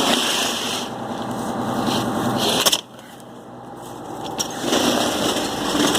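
A 1991 Spartan rescue truck's engine idling steadily. Just under three seconds in, the sound drops away sharply, then slowly builds back up.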